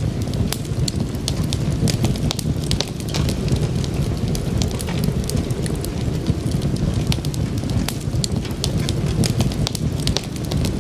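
Wood fire burning, with a steady low rumble and many irregular sharp crackles and pops from the burning logs.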